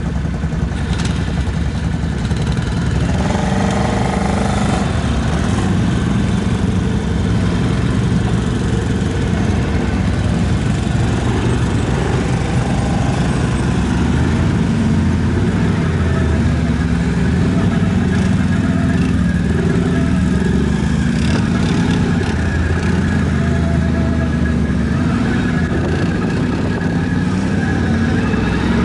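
ATV engine running steadily throughout, its pitch drifting up and down with the throttle.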